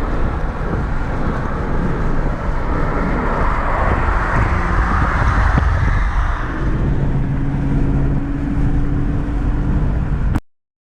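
V8 car engine running as the car drives by, loudest about four to six seconds in, then settling to a steady note; the sound cuts off abruptly near the end.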